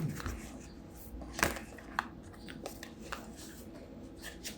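A deck of thick oracle cards being shuffled by hand: scattered soft taps and flicks of card against card, the loudest about a second and a half in.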